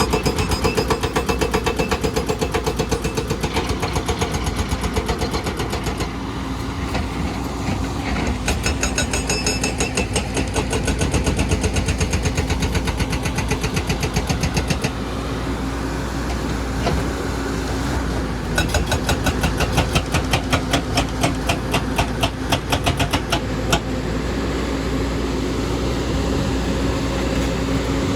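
Excavator's diesel engine running under working load, with stretches of rapid, evenly spaced pulsing.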